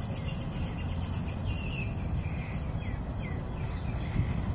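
Birds chirping, with many short quick notes repeating throughout, over a low rumble of wind on the microphone.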